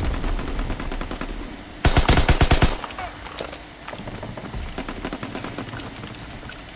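Video game automatic gunfire from a first-person shooter, heard from the game's audio. A loud, rapid burst of about ten shots a second comes about two seconds in, with fainter rapid shots before and after it.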